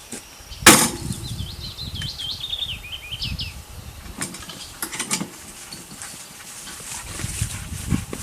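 Footsteps and rustling through forest undergrowth, with a sharp knock a little under a second in. A songbird sings one short phrase of quick chirps that step down in pitch.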